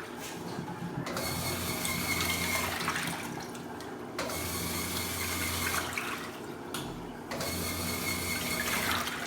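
A washing machine in its wash cycle, agitating: runs of about two seconds of motor hum with water swishing, each followed by a short pause as the drum reverses, three times.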